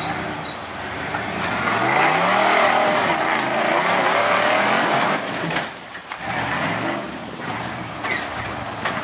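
Engine of a lifted 4x4 truck on 54-inch bogger mud tires revving hard, its pitch climbing over the first few seconds under a loud rushing noise. It backs off sharply about six seconds in, then revs up again.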